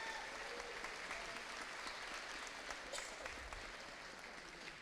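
Audience applauding, steady for about three seconds and then tapering off near the end.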